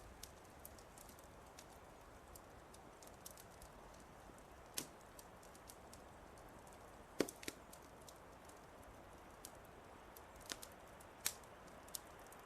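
Wood fire crackling softly: scattered sharp pops and snaps over a faint steady hiss, the loudest pop about halfway through.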